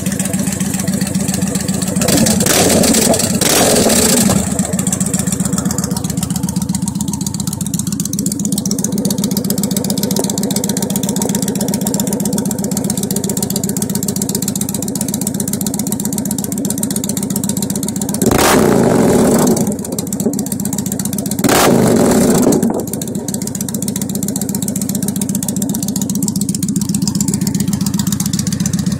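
Victory Vegas V-twin motorcycle with Hacker Ripper aftermarket exhaust idling, revved twice in quick succession a couple of seconds in and twice again about two-thirds of the way through, settling back to idle after each rev.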